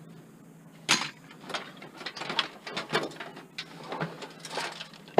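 Metal parts of a desktop computer case being handled and pried apart by hand: a sharp click about a second in, then a run of irregular clicks, rattles and scrapes, ending in a loud knock.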